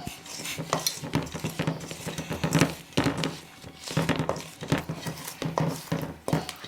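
Spoon stirring thick brownie batter vigorously in a mixing bowl: a quick, irregular run of knocks and scrapes against the bowl, over a steady low hum.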